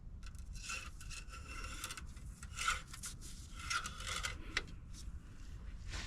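Several rubbing or scraping strokes, each lasting about half a second to a second, over a steady low rumble.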